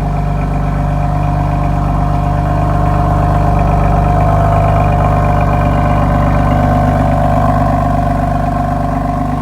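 BMW M4 Competition's twin-turbo straight-six idling steadily through a full M Performance exhaust, swelling slightly in loudness about halfway and easing back.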